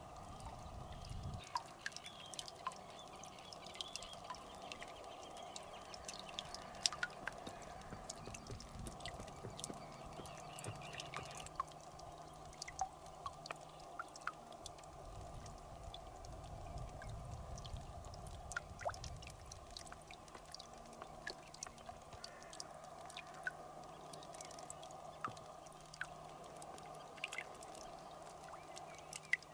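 Water dripping and trickling, with many small irregular clicks and drops over a faint steady background.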